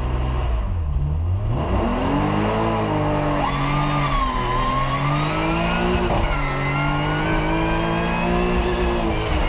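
BMW M5 E34 race car's engine heard from inside the stripped cabin, pulling away from the start and accelerating hard uphill. Its pitch climbs and drops back with each gear change, a few times.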